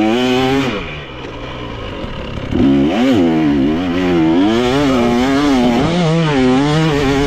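Motocross dirt bike engine revving hard, its pitch rising and falling with the throttle. It drops off and goes quieter about a second in, then comes back loud near three seconds and keeps surging up and down.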